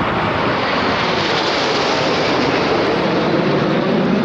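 Red Arrows' BAE Hawk T1 jets, powered by Adour turbofans, flying low past with a loud, steady jet roar that deepens near the end.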